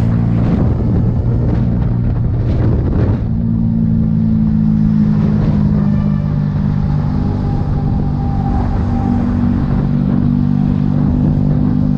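A vehicle engine running at a steady speed, a constant low hum with no revving. There is extra rumbling noise in the first three seconds.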